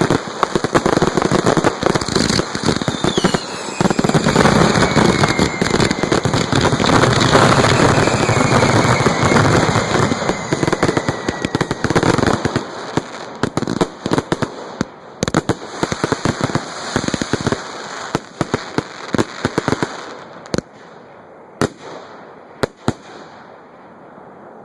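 A dense fireworks barrage going off close by: continuous bangs and crackling with falling whistles, thinning out about halfway through to scattered crackles, then a few last single cracks before it dies away.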